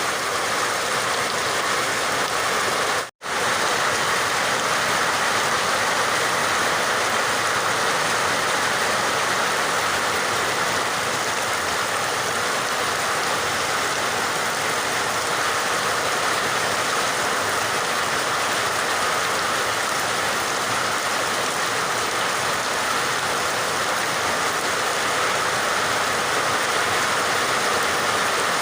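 Steady heavy rain, an even hiss of falling water, that cuts out for a split second about three seconds in before carrying on unchanged.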